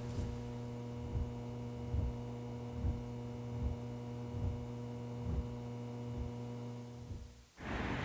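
A steady electrical hum with soft low thuds at an even pace, a little more than one a second. Both cut off suddenly near the end, and a different, noisier sound begins.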